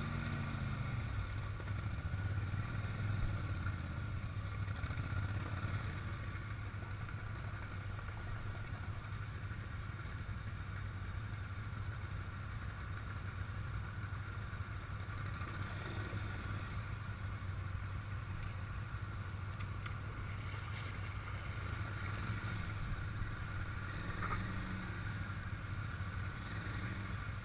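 Off-road vehicle engine running steadily, a constant low hum with no change in revs.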